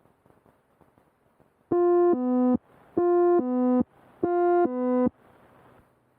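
Electronic two-tone alert, a buzzy higher tone followed by a lower one, sounded three times in a row over about three and a half seconds: an aural alert from the aircraft's avionics, heard through the intercom audio.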